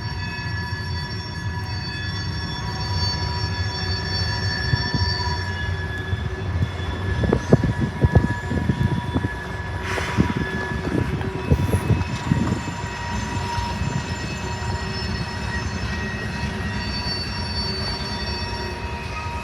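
Union Pacific freight train rolling past, its steel wheels squealing in steady high tones. Between about seven and thirteen seconds in comes a run of clanks and knocks from the rolling cars.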